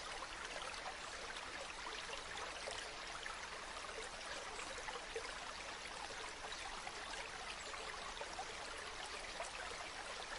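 Small stream of spring water running and trickling steadily, a continuous babble with many small splashes.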